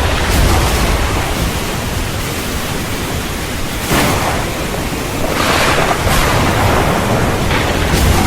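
Steady heavy rain with low thunder rumbling underneath; a sudden louder swell comes about four seconds in and another between five and six seconds.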